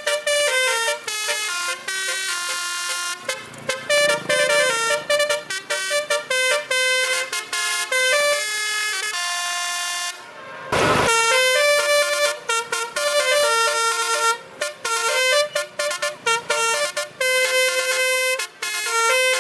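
Basuri multi-trumpet truck horn playing a melody of short, changing notes. The melody is broken by a short burst of noise about eleven seconds in.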